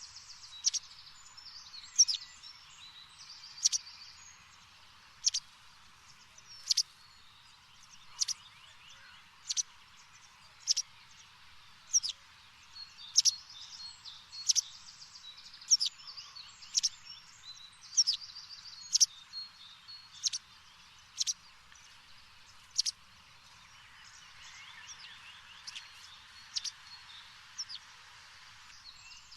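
A bird calling over and over, short sharp chirps that fall in pitch, about one every second and a half, over softer high twittering and a steady hiss.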